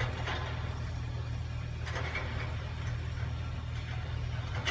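An engine idling with a steady low hum, plus a couple of brief faint noises.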